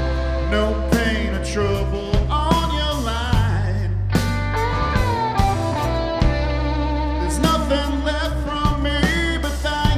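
Live rock band playing: electric guitars over bass and drums, with drum hits marking a steady beat.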